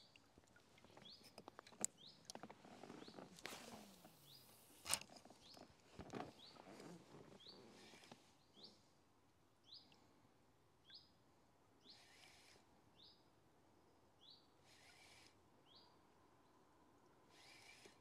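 A small bird faintly repeating a short rising chirp about once a second. A few sharp knocks come in the first half, the loudest about five seconds in, and there are soft rustles near the end.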